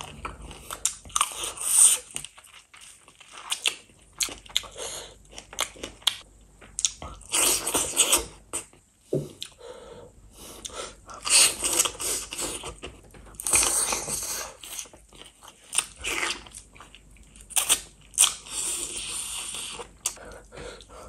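Close-miked chewing and crunching of spicy chicken feet in gravy, in irregular bursts with sharp clicks and short pauses.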